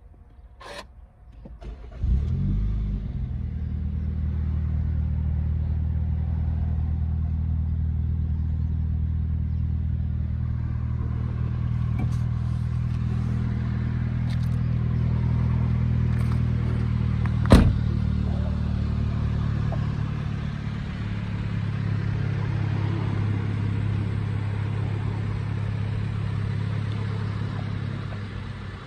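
Mini Cooper S's turbocharged four-cylinder engine starting about two seconds in with a brief flare of revs, then idling steadily. A sharp click comes a little past halfway, and the engine sound drops off near the end.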